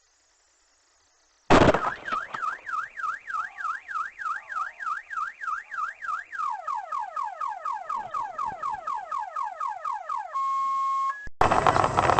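Car alarm going off. It starts suddenly and cycles through its tones: a fast up-and-down warble about four times a second, then repeated falling sweeps, then a short steady tone. It cuts off abruptly near the end, replaced by loud, even road or engine noise.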